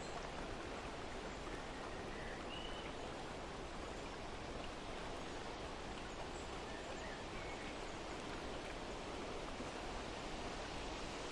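Steady outdoor nature ambience: an even rushing hiss with a few faint bird chirps, about two seconds in and again around seven seconds.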